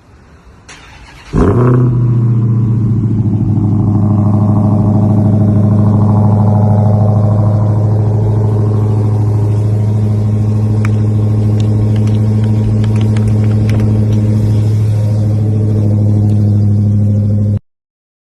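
Dodge Challenger V8 starting up about a second and a half in, then running at a loud, steady fast idle. The sound cuts off abruptly near the end.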